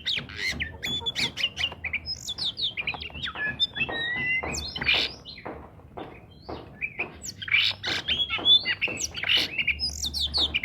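Oriental magpie-robin (kacer) singing steadily: a rapid, varied string of whistled notes and gliding phrases mixed with short harsh, raspy notes.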